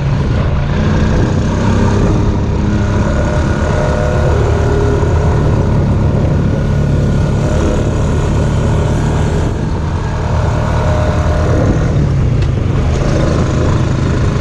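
ATV engine running steadily as the machine rides along a trail, easing off briefly about ten seconds in.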